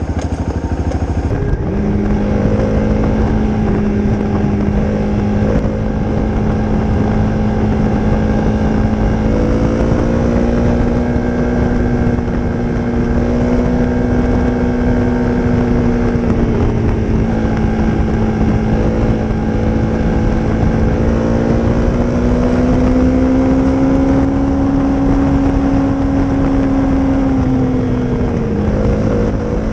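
Honda CRF250's single-cylinder four-stroke engine running through a Leo Vince aftermarket exhaust at a steady cruise. The engine note holds fairly even with slight rises and falls, and the revs drop briefly near the end.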